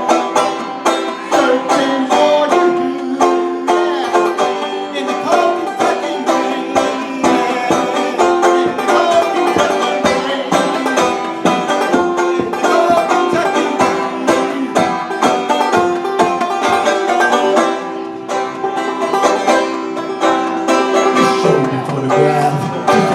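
Banjo picked rapidly in an instrumental break of a country song: a dense run of quick plucked notes, with lower notes coming in near the end.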